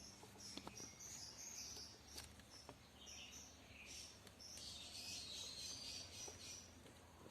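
Faint birds chirping in the background, with a few faint clicks.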